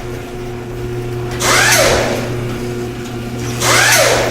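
Produced intro sound effect: a whooshing sweep with a falling, power-tool-like whine, repeated about every two seconds over a steady low hum.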